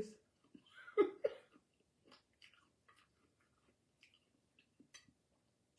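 Faint chewing of fried whole red snapper, with scattered small wet mouth clicks and smacks. There is a brief vocal sound about a second in.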